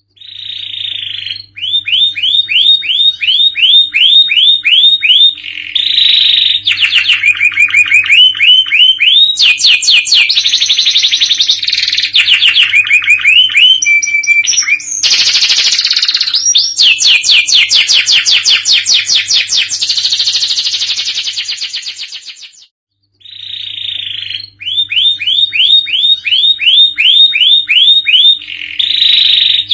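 Domestic canary singing a loud, fast song in full voice: runs of rapidly repeated notes and rolling trills, phrase after phrase, over a faint steady electrical hum. The song cuts out for about half a second near the two-thirds mark, then starts again with the same opening phrase.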